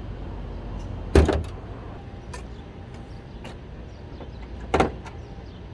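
Two loud thuds about three and a half seconds apart, with a few lighter clicks between them over a low steady hum.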